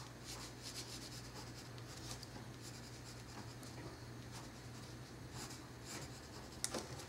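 Pencil sketching lightly on paper: short, faint scratchy strokes in quick runs, over a steady low hum.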